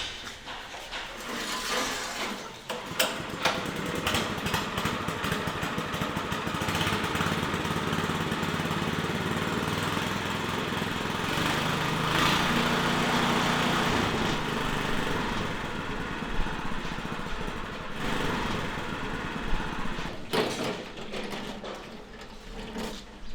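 A small engine or motor running steadily, louder for a few seconds about halfway through, with scattered clicks and knocks.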